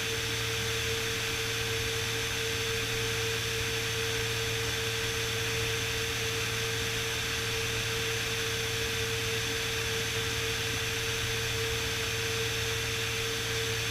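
Beechcraft Bonanza S35's six-cylinder piston engine and propeller in flight: a steady cabin drone with an even hiss, a low hum and one constant mid-pitched tone.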